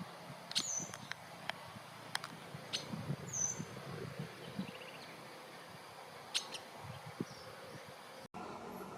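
Short, high bird calls and a few sharp, scattered clicks over a low, steady background rumble. The sound drops out for an instant near the end.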